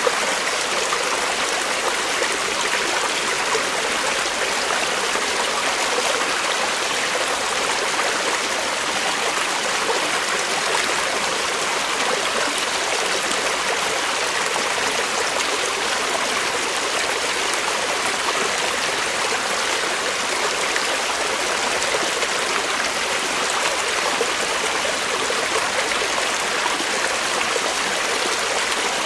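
Creek water flowing and splashing steadily over rocks.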